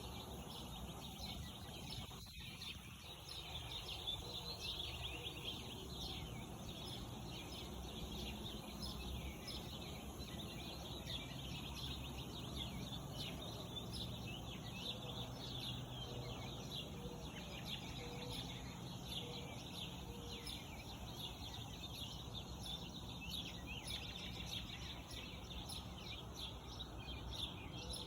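Morning birdsong: many small birds chirping and singing at once in a dense chorus of quick, high calls, over steady low background noise.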